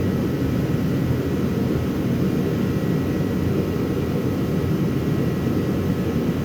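Workshop heater running: a steady low rushing noise with a faint constant whine above it.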